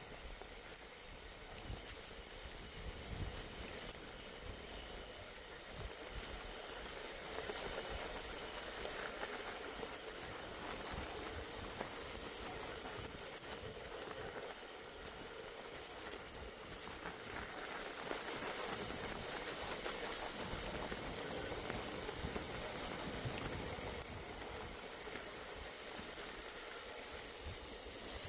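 Bicycle riding over snowy trail: uneven rough rolling noise with jolts, and an intermittent very high-pitched squeal that cuts in and out.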